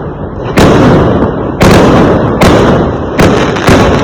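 Fireworks exploding in quick succession: about five loud bangs, each trailing off in a rumble that runs on into the next.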